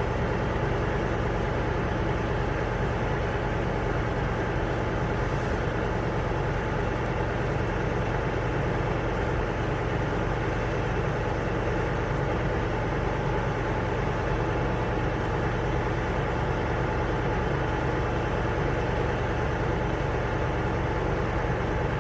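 A vehicle engine idling with a steady low hum and a constant noise over it, unchanging throughout.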